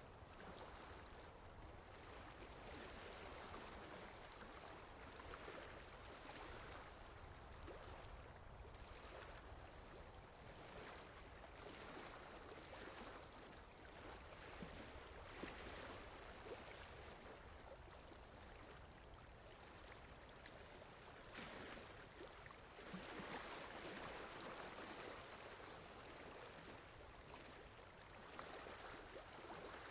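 Faint, steady rainfall: an even hiss that swells a little now and then.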